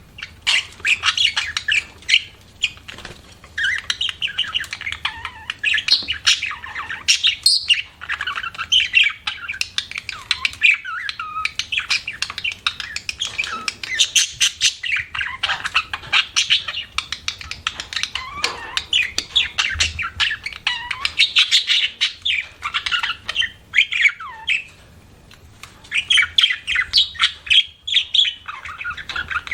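Budgerigar chattering: a dense, rapid stream of warbling chirps and squawks, with brief pauses a few seconds in and near the end.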